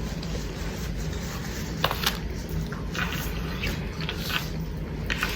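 Eating sounds from close by: wet chewing and handling of messy food, with short crackles and clicks about two, three and four seconds in, over a steady low hum.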